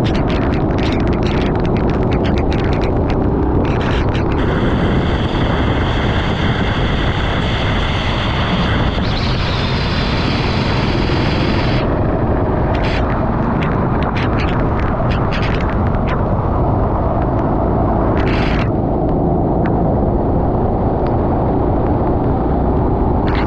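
Racing kart engine running at race pace, a loud steady rumble with many short crackling streaks over it. From about four seconds in until about twelve seconds a higher steady whine runs on top, dropping slightly in pitch around nine seconds.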